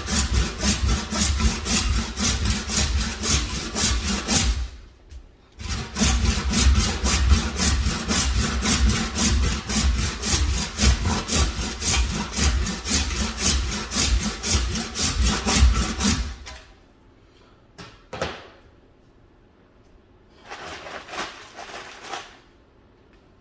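A saw cutting through a buffalo leg with quick back-and-forth strokes, about four a second. It pauses briefly about five seconds in and stops about sixteen seconds in. A couple of short faint scrapes follow near the end.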